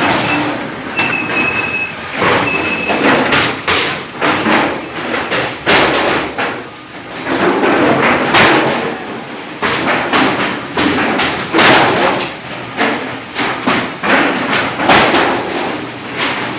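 Automatic squid jigging machines running on deck, a loud, irregular rattle of knocks and clacks.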